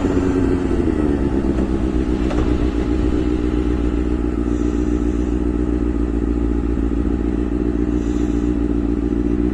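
Honda CBR600 F4i's inline-four engine running at a steady pace under way, its note dipping slightly about a second in and then holding even.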